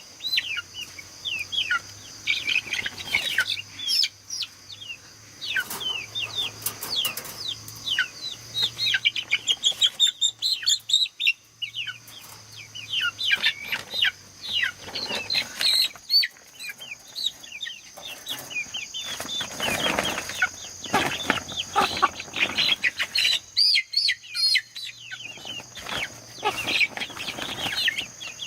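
Chickens calling: many quick, high, falling chirps and clucks keep overlapping, over a steady high whine, with louder rustling bursts twice.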